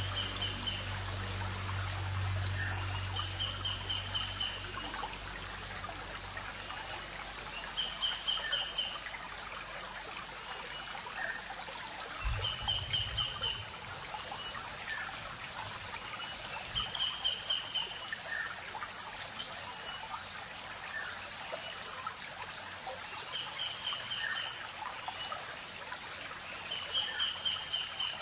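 Small forest stream trickling steadily over stones. A bird repeats a short pulsed trill of about five or six quick notes every few seconds, with thin, higher whistled notes between.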